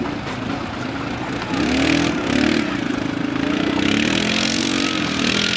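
An ATV engine revving under load. It grows louder and higher from about a second and a half in, with a rough hiss over it.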